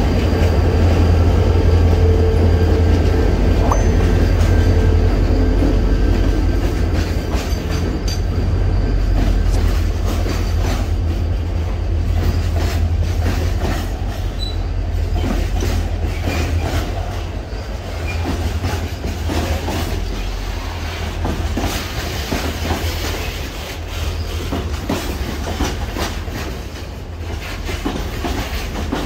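Narrow-gauge freight train passing close by. A deep diesel rumble is strongest in the first several seconds, then the wagons roll past with quick clicks of wheels over rail joints and some wheel squeal, slowly getting quieter.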